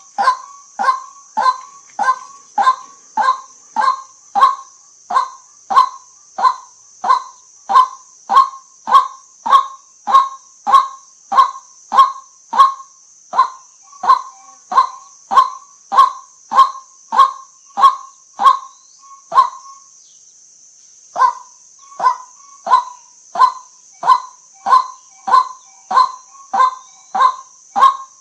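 White-breasted waterhen giving its repeated 'kwak' call, a short sharp note a little more than once a second, with a break of about a second and a half roughly two-thirds of the way through. A steady high hiss runs behind the calls.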